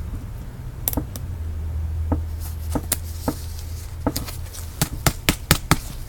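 Trading cards being handled and flicked through: a string of sharp clicks and snaps, sparse at first and coming quickly in the second half, over a low steady hum.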